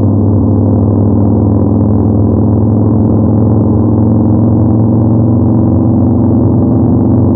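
Yamaha MT-01's big air-cooled 48° V-twin running at a steady cruise, its exhaust note holding an even pitch.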